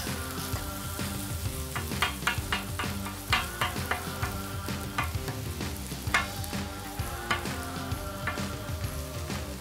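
Fried rice with egg and butter sizzling on a hot grill while it is stirred, the utensils tapping against the cooking surface in a run of sharp clicks between about two and seven seconds in.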